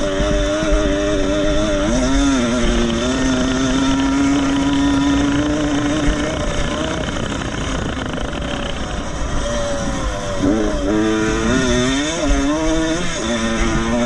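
Vintage motocross bike engines revving, their pitch holding steady, then dropping and climbing again as they come off and back on the throttle several times near the end, with low wind rumble on the microphone.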